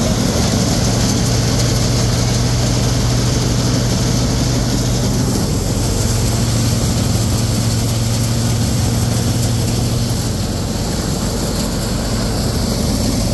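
Combine harvester engine running steadily, a loud even drone with a constant low hum.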